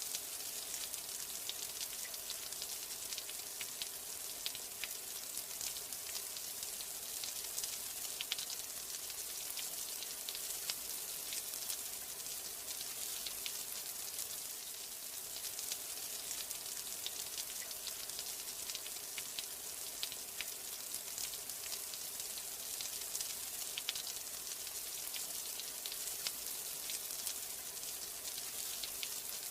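Steady rain: a constant hiss with many small drops ticking.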